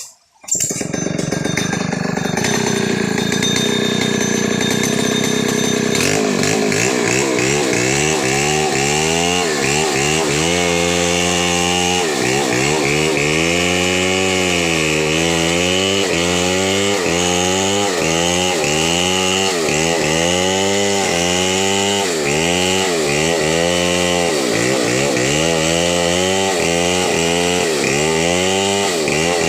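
Two-stroke chainsaw running hard, cutting wood. From about six seconds in, its engine note repeatedly sags and recovers every second or two as the chain bogs under load in the cut.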